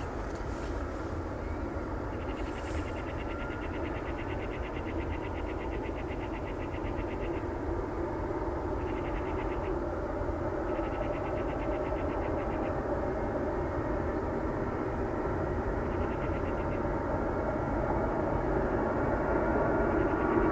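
AgustaWestland AW139 twin-turbine helicopter approaching to land, a steady rotor and engine rumble that grows gradually louder, with a fast buzzing that comes and goes at intervals.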